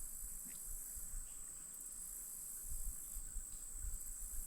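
Steady high-pitched insect chorus, a continuous shrill buzz that pulses slightly, with faint low rumble beneath.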